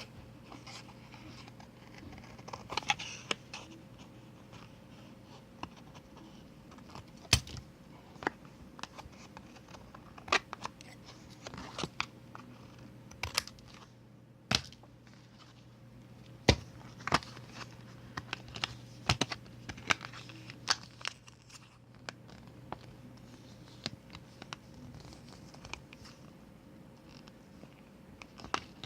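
Scissors trimming a paper photo: irregular sharp snips, a dozen or so spread unevenly, with light paper scratching and rustling between them.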